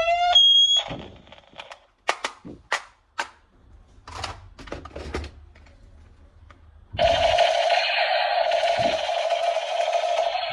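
Scattered sharp plastic clicks, then from about seven seconds in a loud, steady electronic buzzing tone from a toy's sound chip. The tone is still going at the end.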